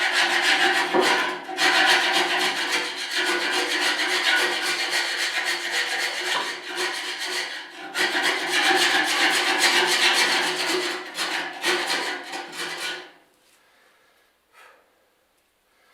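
A carpenter's chisel scraping hard carbon deposits off the metal walls of a pellet stove's combustion chamber, down to bare metal. The rasping strokes run on continuously, with a brief break about eight seconds in, and stop about thirteen seconds in.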